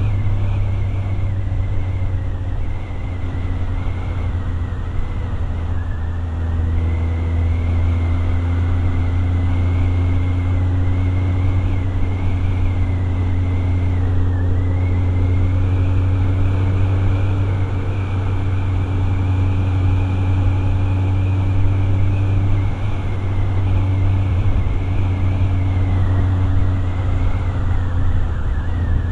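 Motorcycle engine running under way, heard from the rider's position as a loud, steady low rumble. Its note creeps slowly higher, then drops back about three quarters of the way through.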